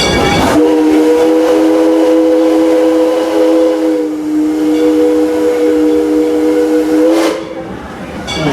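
Steam locomotive's chime whistle blowing one long blast of several steady tones together, lasting about six and a half seconds and wavering briefly midway, then cutting off to the train running.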